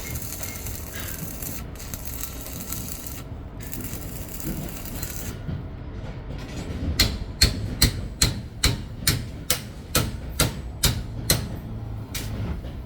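A steady hiss for about the first five seconds, then a run of about eleven sharp knocks, roughly two a second, that stops a little before the end.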